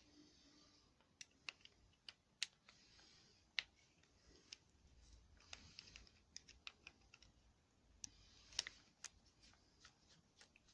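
Scattered small sharp clicks and taps, irregularly spaced, with faint rustling between them: hands and small tools handling parts of a hedge trimmer's fuel system during repair.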